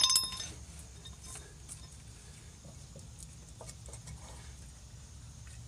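A sharp metallic clink that rings briefly, then faint scattered clicks and scrapes of metal parts being handled while a sway bar bushing bracket is fitted back in place.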